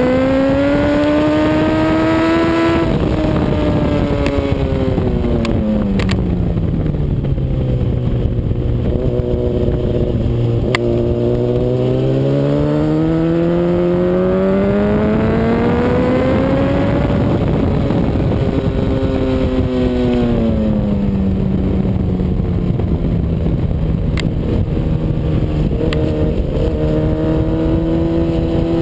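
Honda CBR RR sport bike's inline-four engine heard onboard at track speed: the engine note climbs under acceleration, drops away and holds low as the bike slows for a corner, then climbs and falls again and rises near the end. Steady wind rush runs underneath.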